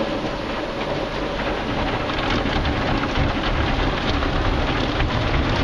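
Automatic conveyor car wash heard from inside the car: spinning wash brushes scrubbing and slapping the body and water spraying over the glass, a steady rain-like wash with scattered patters. It grows louder and deeper about two seconds in.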